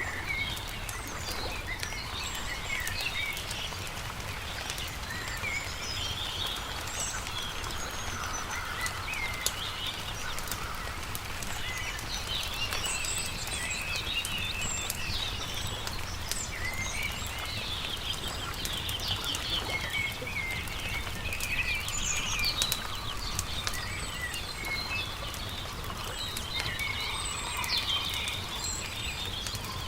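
Several small songbirds chirping and trilling over the crackle and frequent small pops of a wood campfire, with a steady low rumble underneath.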